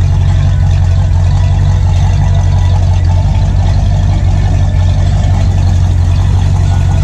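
A car engine idling close by: a loud, steady low rumble that holds even throughout.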